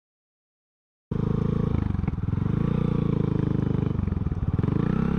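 A vehicle engine running at a steady, low pitch, cutting in abruptly about a second in after dead silence, with brief dips about two and four seconds in.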